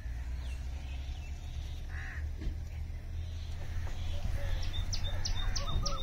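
Birds calling in trees and fields: scattered short chirps, then from about four seconds in a quick run of high repeated chirps with a few lower rising-and-falling notes, over a steady low rumble.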